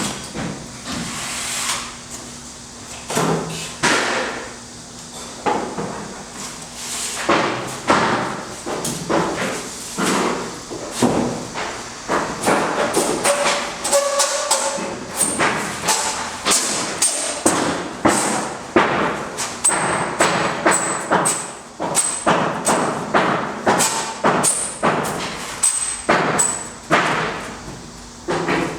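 Irregular knocks and thumps of building work, coming thick and fast through the second half.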